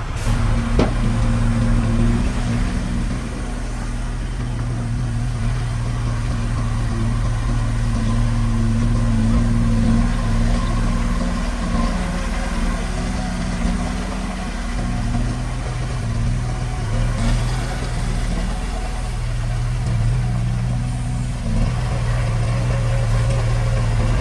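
Diesel engine of heavy construction machinery running steadily with a low hum, its note dropping out briefly around the middle and again near the end.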